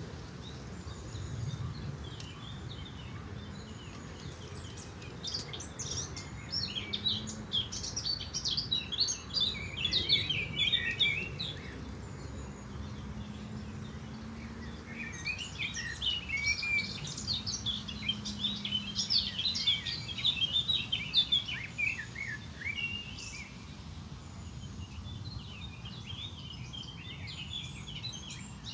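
Several birds chirping and singing in bouts of rapid, high calls, over a steady low background rumble.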